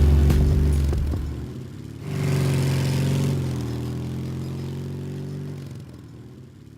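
Motorcycle engine running, swelling briefly about two seconds in, then fading away.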